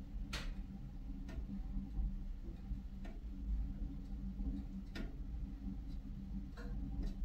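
Fire in a fireplace crackling: sharp pops at irregular intervals, the loudest near the start, over a low steady rumble.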